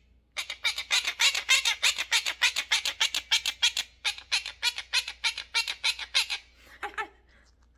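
Parrot squawking in a fast, harsh run of about six short screeches a second, with a brief break partway through, then one shorter, lower call near the end.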